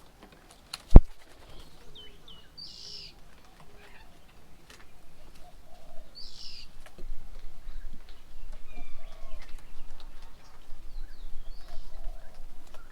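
Birds at a feeding table giving short, scattered high calls, with faint low cooing-like notes and wing flutter. A single sharp knock about a second in is the loudest sound, and a low rumble comes in about halfway through.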